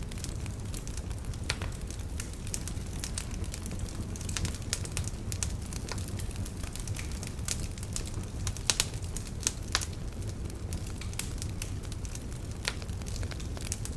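Logs burning in a fireplace: irregular crackles and sharp pops over a low, steady rumble of the fire, with a cluster of louder pops about nine seconds in.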